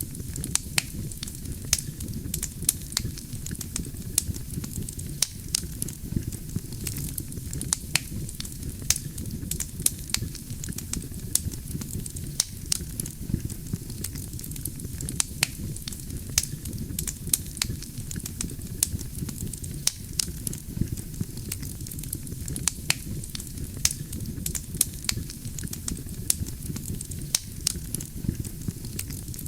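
Wood fire burning: a steady low rush of flame with irregular sharp crackles and pops from the burning logs, several a second.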